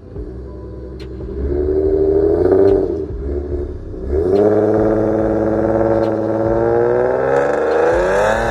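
Supercharged 3.7-litre V6 Ford Mustang with a Borla exhaust and custom H-pipe revving: a short rev about a second and a half in that falls back, then a long rev that climbs steadily in pitch for about four seconds and drops off near the end.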